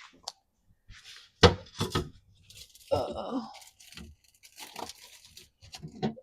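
Kitchen handling noises: a sharp knock about a second and a half in, then plastic crinkling and rustling as items are moved and set down, with a few more light knocks.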